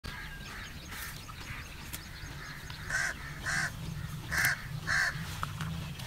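A bird calling four times, short calls in two pairs about three seconds in, over a steady low rumble.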